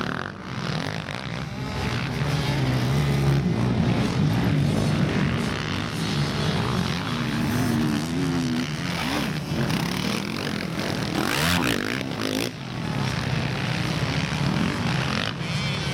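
Quad bike engines on a motocross track, revving with the pitch rising and falling as the throttle opens and closes. A brief loud rush of noise comes about two-thirds of the way through.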